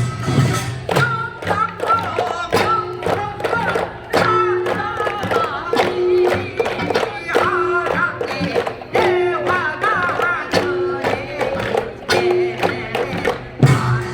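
Korean folk singing with wavering vocal lines over steady drum beats, part of a live folk sound-drama performance.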